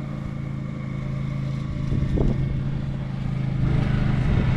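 An engine running at a steady speed, growing louder a little before the end.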